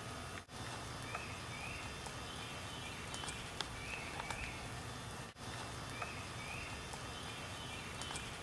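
Outdoor ambience: a bird's short chirps, often two at a time, recurring every second or two over a steady hiss.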